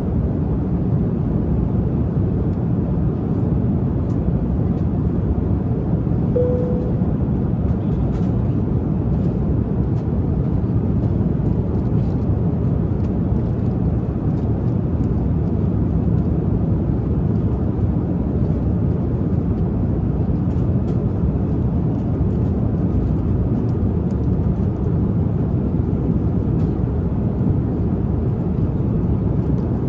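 Steady low drone of an airliner cabin in flight, with a single short tone about six seconds in.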